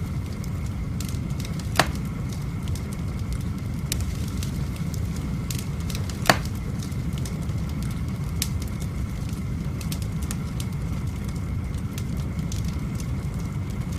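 Wood fire burning in a fireplace: scattered crackles over a steady low rumble, with two louder sharp pops, about two and six seconds in.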